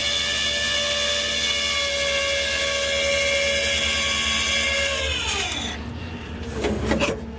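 A motor whining steadily at a high pitch, then winding down and stopping about five seconds in, followed by a few loud knocks and clunks near the end.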